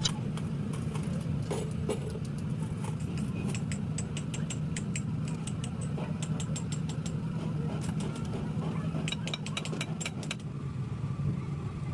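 An engine idling steadily, with many sharp irregular clicks and taps over it that stop shortly before the end; a faint steady whine comes in near the end.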